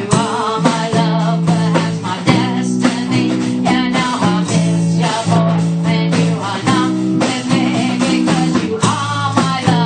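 A rock band playing a blues-rock song at practice, with guitars over steady low notes and a regular drum beat.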